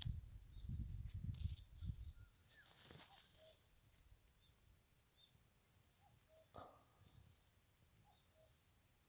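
Faint outdoor ambience of small birds chirping in short high notes throughout, with a low rumble of wind or handling noise in the first two seconds and a brief rustle about three seconds in.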